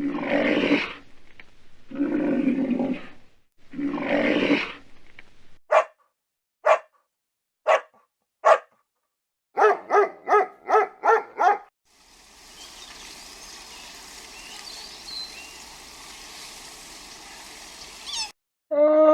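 A run of different animal calls, one after another. There are three loud, harsh calls, then four short, sharp chirps, then a quick run of six pitched yelps. After that comes about six seconds of steady hissing, and a new pitched call starts at the very end.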